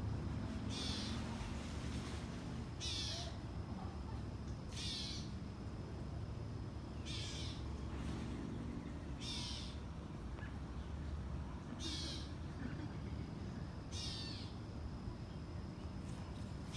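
A bird calling: a short, harsh, high call repeated about every two seconds, seven times.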